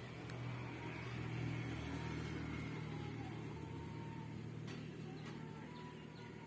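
Faint, steady low hum like a distant motor, with a few soft clicks.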